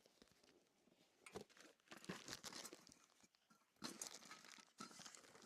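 Faint, irregular rustling and crunching, starting about a second in and coming in short clusters.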